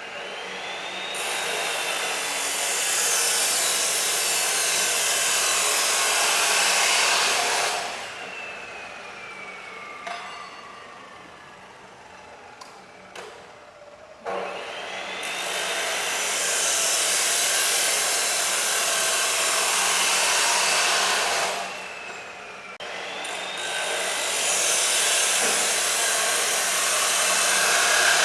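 A high-speed power tool running in three long spells with a loud hiss. Each spell starts with a rising whine, and after the first a falling whine is heard as the tool winds down.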